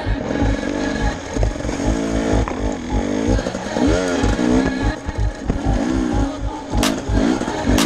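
Husqvarna enduro motorcycle engine revving up and down again and again as the bike is ridden over a rough, rocky forest trail, with a couple of sharp knocks near the end.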